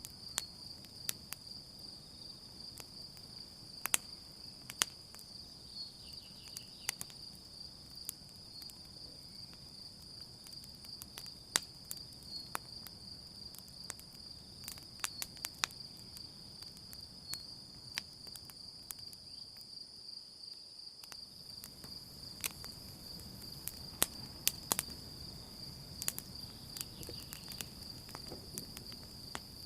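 Campfire crackling, with irregular sharp pops and snaps of burning wood, over a steady high-pitched trill of crickets.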